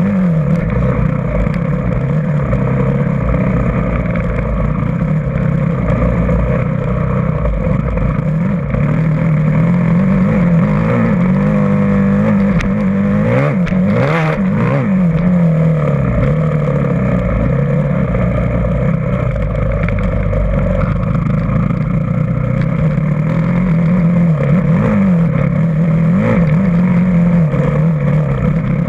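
Dirt bike engine being ridden, its revs rising and falling over and over as the throttle opens and closes, with a brief rush of noise about halfway through.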